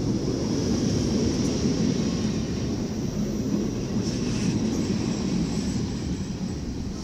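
Dutch NS electric passenger train rolling slowly along the platform: a steady rumble of wheels and running gear that eases off toward the end as the train slows.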